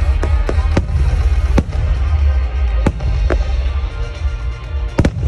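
Fireworks going off: sharp bangs every second or so, two close together near the end, over a deep continuous rumble, with music playing along.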